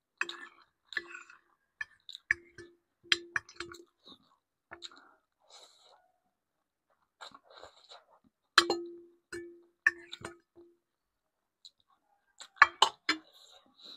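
Eating utensil clinking against a dish, several strikes each leaving a short ringing tone, between softer chewing sounds. The loudest clinks come near the middle and in a quick cluster near the end.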